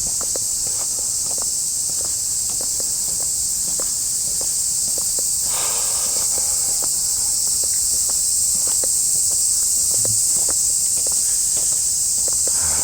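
A loud, steady high-pitched buzzing of a summer cicada chorus, with footsteps walking on a path at about two steps a second.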